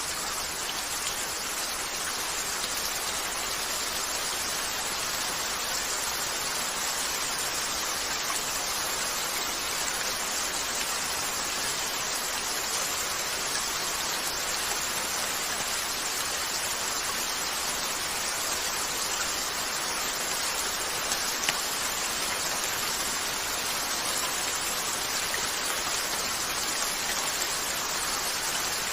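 Steady rain falling, an even hiss with no let-up, and one sharp click about three-quarters of the way through.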